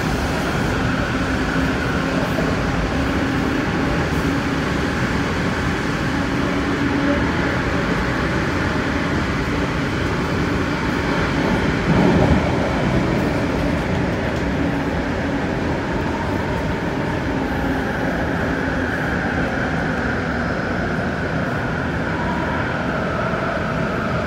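Adtranz-CAF electric multiple unit train running between stations, heard from inside the car: a steady rumble of wheels on rail with a few steady humming tones. A brief louder thump comes about halfway through.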